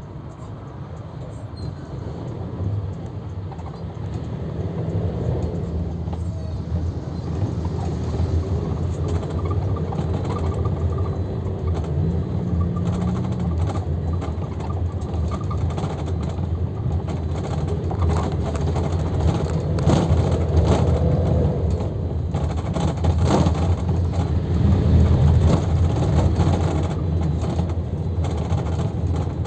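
Luidor-2250DS minibus driving, heard from inside: a steady engine rumble with road noise that grows louder as it goes, the engine note shifting a couple of times. Short knocks and rattles come through in the second half.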